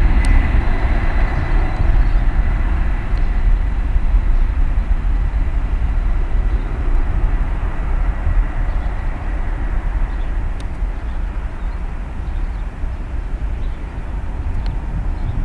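Jet engines of a Boeing 757 airliner at takeoff power: a heavy, steady rumble with a thin whine that fades out, the whole sound slowly dying away as the aircraft climbs off.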